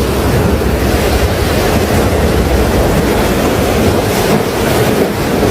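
Loud, steady rushing noise with a deep rumble underneath, like pouring water or strong wind.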